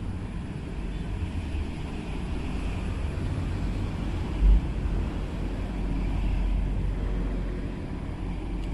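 Steady low rumble of traffic crossing the bridge overhead, with one short heavy thump about four and a half seconds in.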